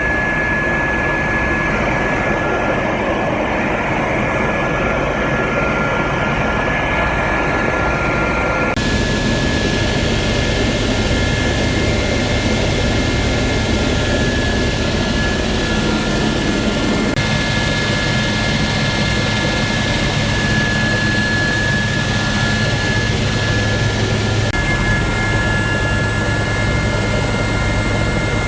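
SA342M Gazelle helicopter's turboshaft engine and rotors running with a steady high whine over a dense rumble. The mix changes abruptly about 9, 17 and 25 seconds in.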